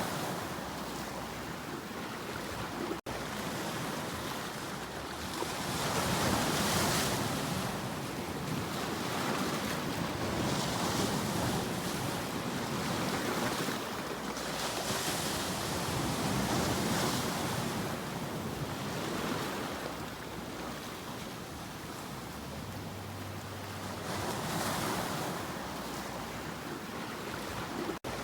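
Sea waves washing in, the surf rising and falling in swells every few seconds. The sound briefly drops out twice, about three seconds in and just before the end.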